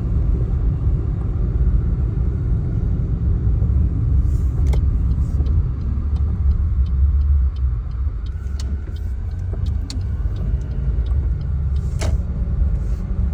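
A car driving, its steady low road and engine rumble running throughout, with a few sharp clicks scattered through it.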